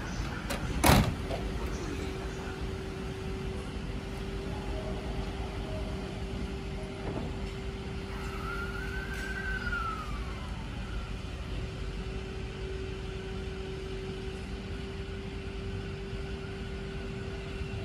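E217 series electric train pulling out of a station: a sharp knock about a second in, then a steady hum under the rumble of the train, and a whine that rises and then falls away as it gathers speed.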